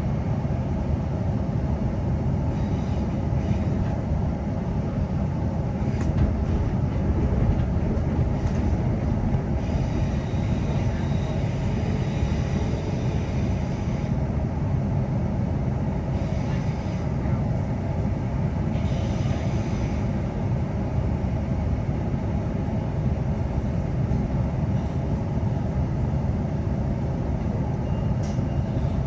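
Queensland Rail NGR electric multiple-unit train running between stations, heard from inside the carriage: a steady rumble of wheels on the track, with a few stretches of brighter hiss.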